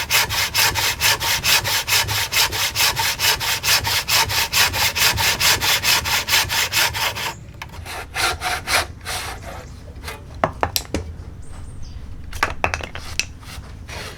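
Hand saw cutting wood in quick, even strokes, about four a second. The sawing stops about seven seconds in, and scattered light knocks and taps follow.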